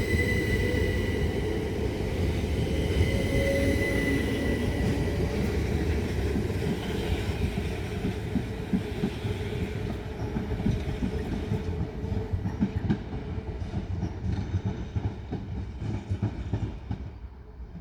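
Electric multiple-unit train running through, its motors giving a steady high whine over a heavy low rumble. The whine fades after a few seconds, leaving a run of wheel clicks over the rail joints as the sound dies away near the end.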